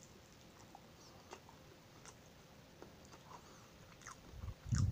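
A person chewing a mouthful of buko pie close to the microphone: faint, scattered wet mouth clicks. A low rumble builds near the end.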